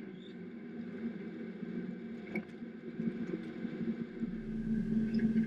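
NB Mazda Miata's four-cylinder engine running steadily while cruising with the top down, getting louder over the last couple of seconds as a low rumble joins in.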